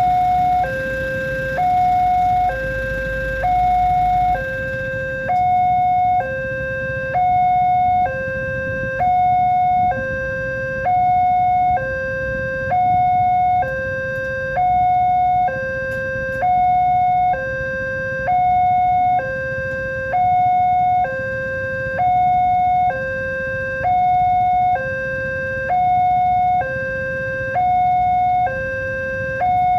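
Level crossing's electronic warning alarm sounding a steady two-tone signal, a high note and a low note taking turns, each held just under a second. It is the warning that a train is approaching and the crossing is closed.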